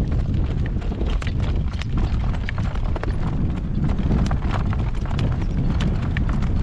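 Horse's hooves clip-clopping on the road as it pulls a cart, many hoofbeats a second, over a steady low rumble.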